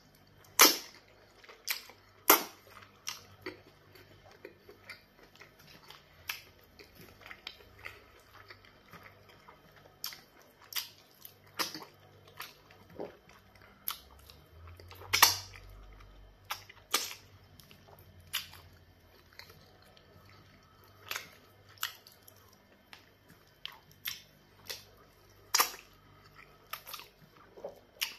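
Close-miked eating sounds: sharp, wet mouth clicks and smacks at irregular intervals as pounded yam fufu with black soup is chewed and eaten by hand.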